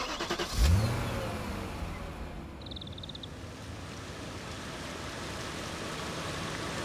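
An engine revving up about half a second in, then running steadily under a wash of noise, with a brief rapid ticking partway through.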